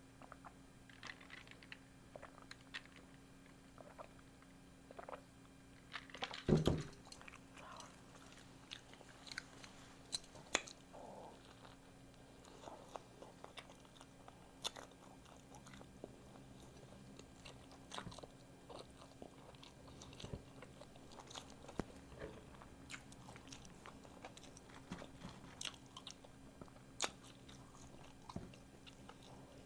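Close-up eating sounds: soft chewing and biting of a loaded cheddar hot link on a bun, with small wet mouth clicks scattered throughout. There is one louder thump about six and a half seconds in, and a faint steady low hum underneath.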